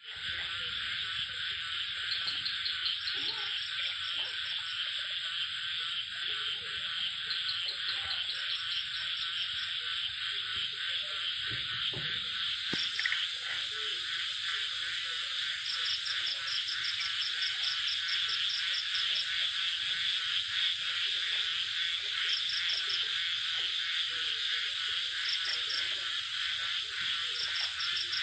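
A night chorus of frogs, including small paddy frogs (khiat), calling in a dense, unbroken mass. Short, rapid pulsed trills come and go on top, with scattered lower croaks beneath.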